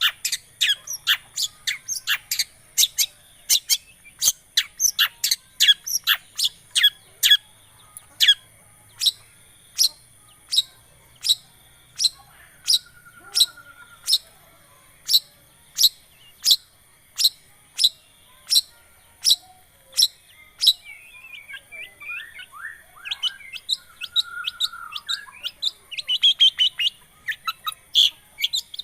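Long-tailed shrike (cendet) singing: a long series of sharp, repeated chip notes, about two a second, that breaks into a faster, more varied twittering phrase in the last third.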